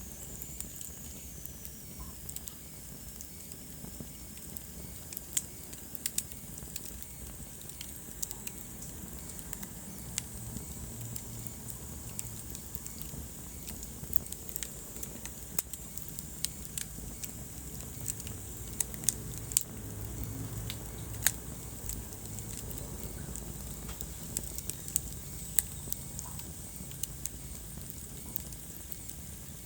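Wood fire burning in a fireplace: a steady low rumble of flame with frequent irregular crackles and sharp pops of the burning logs.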